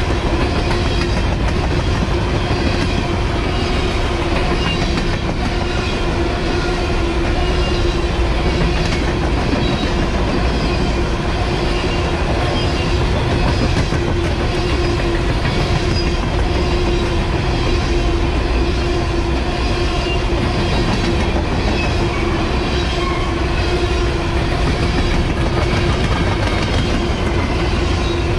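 Covered hopper cars of a Norfolk Southern grain train rolling past close by: a steady rumble of steel wheels on rail with a rhythmic clickety-clack over the joints and a steady hum underneath.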